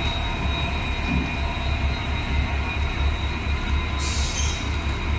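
Diesel locomotive engine running with a steady, pulsing low rumble. A short hiss cuts in about four seconds in.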